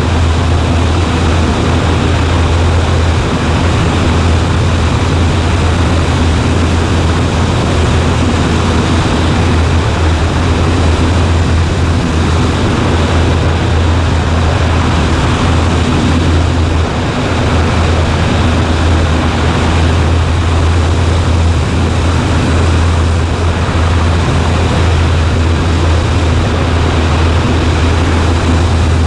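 Cessna 140A's single piston engine and propeller droning steadily in flight, a strong low hum under an even rushing hiss.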